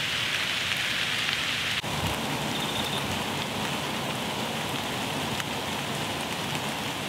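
Steady light rain: an even hiss of falling drops with a few separate drop taps.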